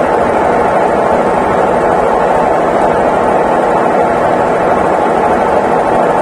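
Consul Facilite 11 kg (CWG11) washing machine running with a steady, even mechanical noise.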